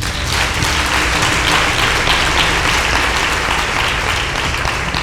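Audience applauding, a dense steady clapping that cuts in suddenly and cuts off suddenly about five seconds later.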